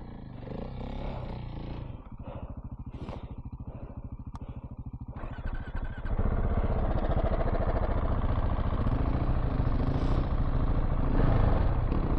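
Dual-sport motorcycle engine running with a steady, even pulse, quiet at first, then clearly louder from about six seconds in.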